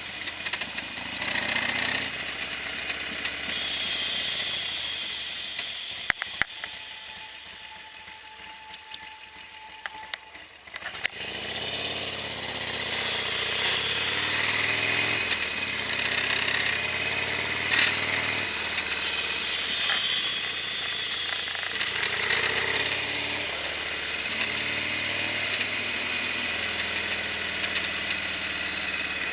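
Harley-Davidson Sportster XL1200R's 1200 cc V-twin engine running under way, its pitch stepping up and down with throttle and gear changes. It drops low for a few seconds, with a few sharp clicks, then picks up again.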